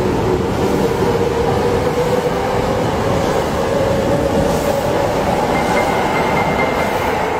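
Electric commuter train pulling out of a station platform and accelerating past, a steady loud running noise of wheels on rail with a motor whine that rises slightly in pitch.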